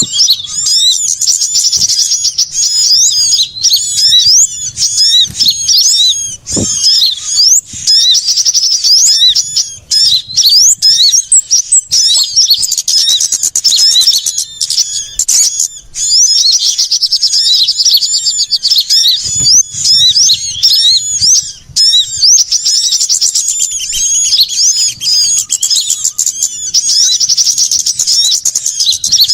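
Recorded calls of many small songbirds layered together: rapid, high-pitched chirps and trills chattering without pause. It is a bird-lure track, meant to draw small birds in.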